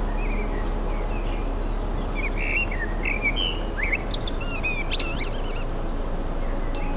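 Small birds chirping: a quick run of short tweets and trills about two seconds in, lasting a few seconds, over a steady low drone.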